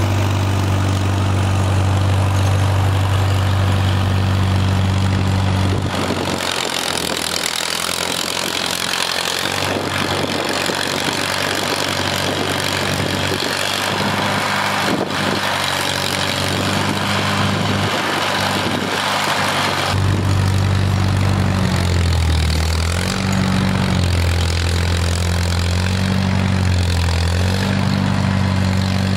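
Farmall M tractor's four-cylinder engine running: a steady hum for the first six seconds, then mostly a broad rushing noise with the low hum fading, and from about twenty seconds in the engine note returns and rises and falls in pitch several times.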